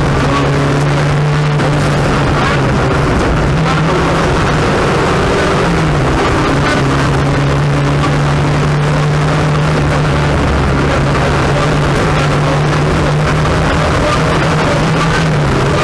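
Lada VFTS rally car's turbocharged 2.0-litre fuel-injected engine running hard, heard inside the cabin at speed, its pitch stepping up and down several times as the driver changes gear, over heavy road and tyre noise.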